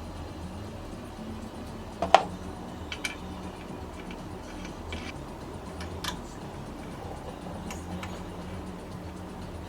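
Scattered sharp clicks and knocks at irregular intervals over a steady low hum, the loudest knock about two seconds in.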